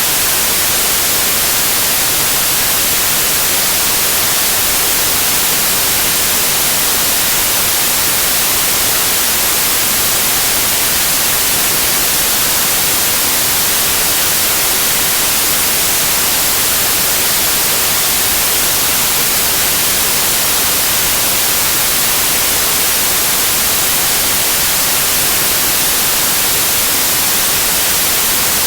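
Steady white noise of television static: an even, unbroken hiss, strongest in the treble.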